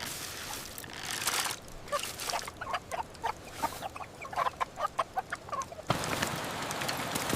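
Chickens clucking in a quick run of short calls. About six seconds in, a steady hiss begins abruptly.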